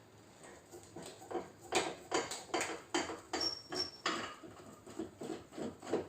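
Light, sharp taps on the sheet metal of a Toyota RAV4 trunk lid during paintless dent repair, about two to three a second. A brief high squeak comes partway through.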